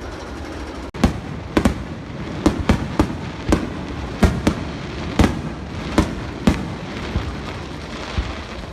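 Fireworks show: a rapid, irregular string of sharp aerial bursts, about a dozen bangs over six seconds starting about a second in, each with a short echoing tail and thinning out near the end.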